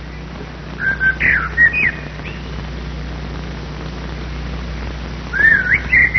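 Two short phrases of whistled bird song with gliding notes, one about a second in and one near the end, over the steady low hum and hiss of an old film soundtrack.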